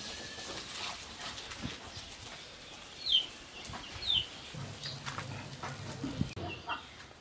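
Two short, falling, high-pitched bird chirps about a second apart, with faint clicks and light knocks from cooking utensils underneath.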